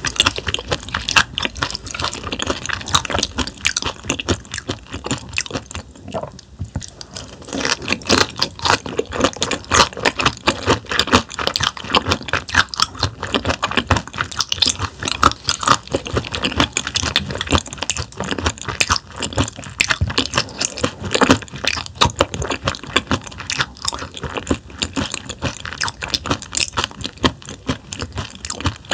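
Close-up chewing and crunching of thinly sliced raw damselfish sashimi, whose bones are tough. It is a dense, steady run of crisp, wet crunches, with a short lull about six seconds in.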